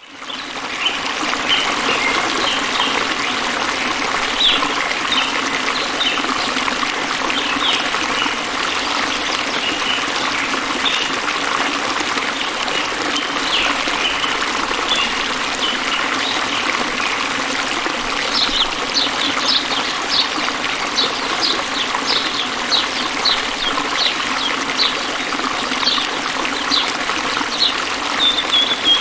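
Water trickling steadily over stones, like a small stream, with birds chirping on top; past the middle one bird repeats short high chirps about twice a second.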